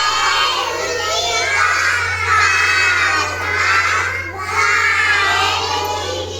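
Many children's voices at once, shouting and chattering over one another, over a steady low hum.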